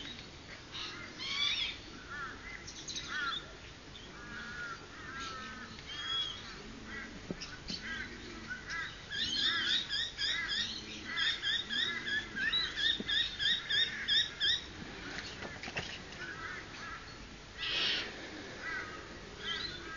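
Birds calling and chirping: scattered high, curved calls, then a fast, even run of repeated chirps for about five seconds in the middle, with fainter low calls underneath and a brief rustling burst near the end.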